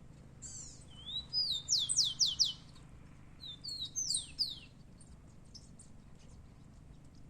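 Rufous-collared sparrow (tico-tico) calling with clear, high whistled notes that slide in pitch, the first phrase ending in a quick run of repeated notes; a second, shorter phrase follows about three and a half seconds in, then only faint short chips.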